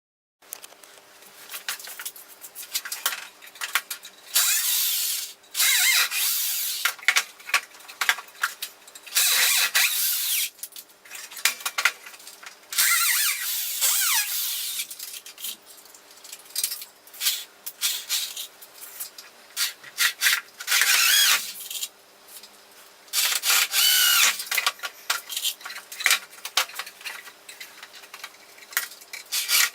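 Power drill running in repeated short bursts, about a second each, its pitch wavering, into wood, with knocks and clatter of wood and tools between the bursts.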